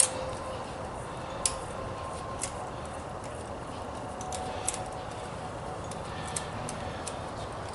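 A handful of sharp, irregular clicks a second or more apart, over a steady low hum.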